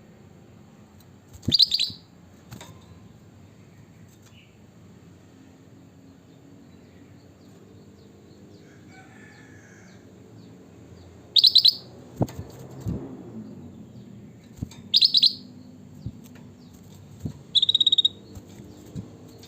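Kutilang batik bulbul giving four short, loud calls spaced several seconds apart, with a few sharp knocks between them in the middle.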